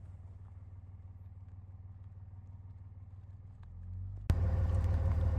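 A vehicle engine running at a steady low hum, which turns abruptly much louder and fuller about four seconds in.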